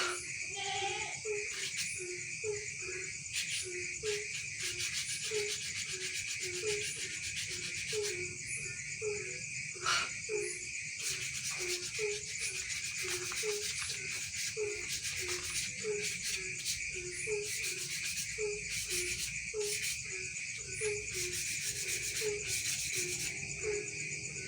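Rhythmic hand rubbing or sanding strokes on a wooden bird-cage part, about two to three strokes a second, over steady cricket chirring.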